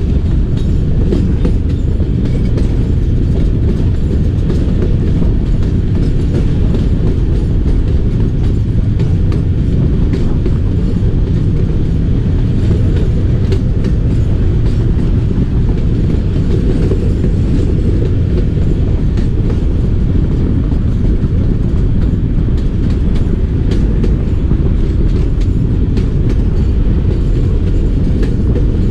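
Passenger train coaches rolling along the track, heard from an open coach window: a steady, loud rumble of wheels on rail with scattered clicks over the rail joints.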